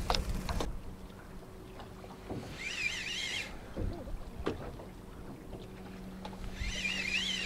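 A bird singing a short warbling phrase twice, about four seconds apart, over a faint steady low hum, with a few light knocks in between.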